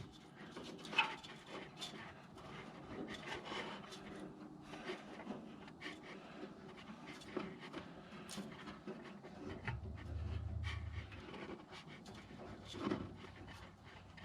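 Quiet hand-work noises: scattered light clicks, taps and rubbing, with a short low hum about ten seconds in.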